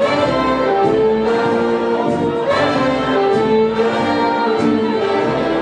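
Dance band music led by brass (trumpets, trombones and saxophones), playing held chords over a light cymbal beat.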